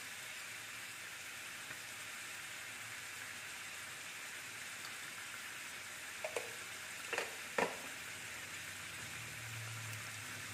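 Chicken pieces and potato chunks sizzling steadily in oil and margarine in a wok. A little past halfway there are three short clinks as a small glass seasoning jar is handled.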